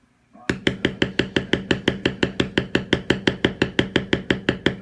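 Rapid, evenly paced mallet strikes on a leather stamping tool, about six a second, each a sharp tap with a brief ring, starting about half a second in.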